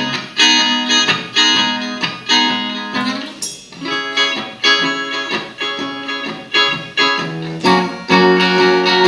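Guitar strumming chords in a steady rhythm, about two strums a second, in a song's instrumental opening.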